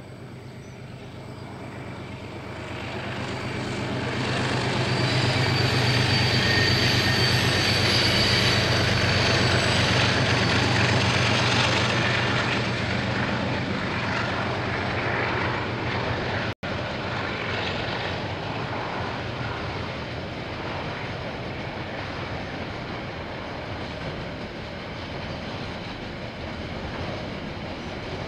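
KiwiRail diesel-hauled freight train passing over a bridge. A low engine hum builds and is loudest in the first half as the locomotive goes by, then the wagons roll past with a steady rumble. There is a momentary dropout in the recording about halfway through.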